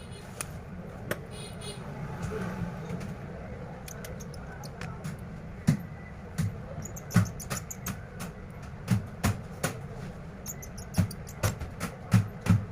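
Sharp clicks and light knocks from a smartphone being handled and pressed together during reassembly, few at first and then coming more often, a couple a second near the end.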